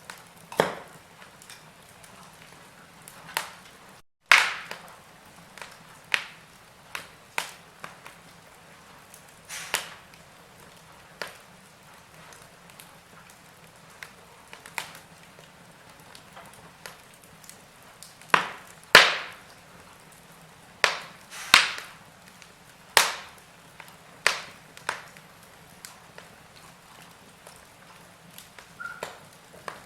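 Wood fire in a fireplace crackling, with sharp pops at irregular intervals over a soft steady hiss. A split-second gap of silence comes about four seconds in.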